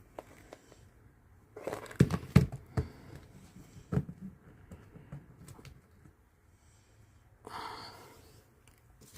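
Silicone mold pieces handled and pressed together, giving a cluster of clicks and taps about two seconds in and another tap about four seconds in, then a short breathy exhale near the end.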